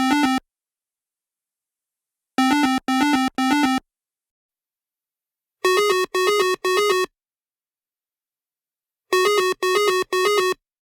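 Synthesized electronic notes in groups of three short beeps, each note warbling quickly, with silence between the groups. The first two groups are lower in pitch and the last two higher.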